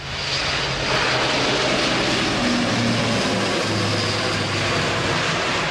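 Airbus A400M's four TP400 turboprop engines at takeoff power, a loud steady rush of engine and propeller noise with a low propeller hum. The noise swells up at the start, and the hum drops in pitch about three and a half seconds in as the aircraft goes past.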